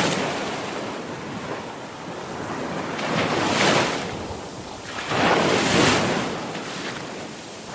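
Sea waves breaking and washing on a shore: the surf swells and falls, with two big wave crashes a little after halfway.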